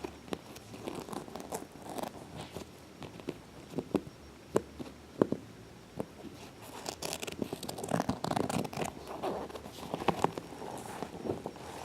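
Faux leather cat carrier being handled: scattered sharp taps and clicks, then from about seven seconds in a denser stretch of scratching and rustling.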